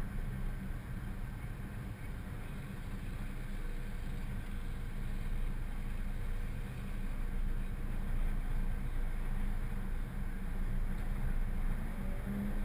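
Mazdaspeed6's turbocharged 2.3-litre four-cylinder idling steadily while the car stands still.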